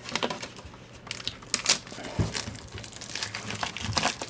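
Plastic packaging crinkling as it is handled and pulled open, with a few sharper crackles along the way.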